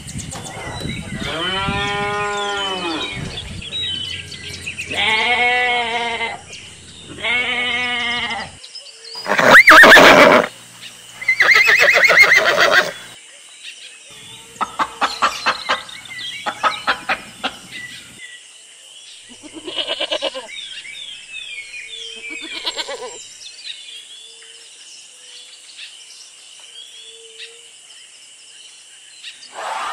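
Cattle mooing, a string of long calls with the two loudest near the middle of the first half. Then chickens clucking in quick pulsed bursts, with small birds chirping faintly in the background.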